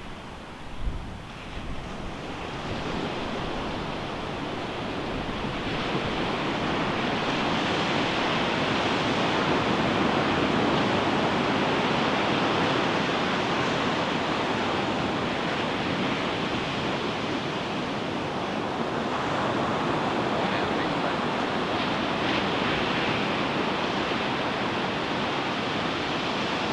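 Ocean surf breaking on a beach: the rush of water swells over the first several seconds into a steady wash of breaking waves. There is a brief low thump of wind on the microphone about a second in.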